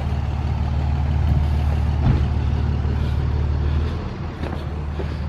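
A vehicle engine running steadily with a deep drone, dying away about four to five seconds in.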